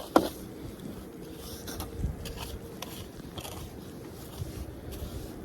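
Deep fresh snow crunching and scraping in a run of irregular short crunches, after a sharp click just at the start.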